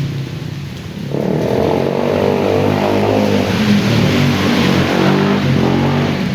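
An engine running, growing louder with a higher, shifting pitch about a second in and easing off near the end, over a steady rush of rain and running water.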